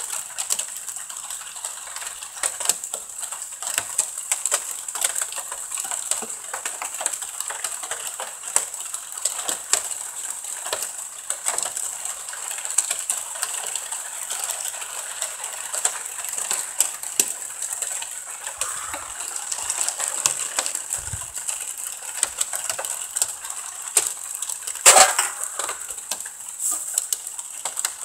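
Rain falling during a thunderstorm: a dense, steady patter of drops on hard surfaces, with one louder sharp knock near the end.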